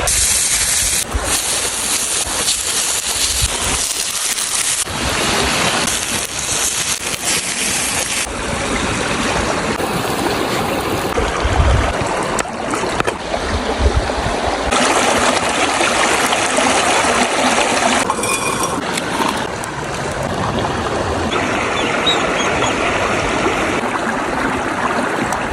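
River water running, a steady rushing noise whose tone changes abruptly every few seconds as the clips cut from one to the next.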